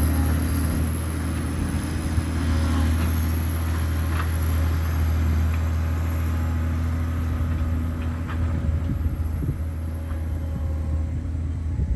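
Diesel engine of a John Deere 670 GP motor grader running steadily under work, with a low drone and a few brief knocks.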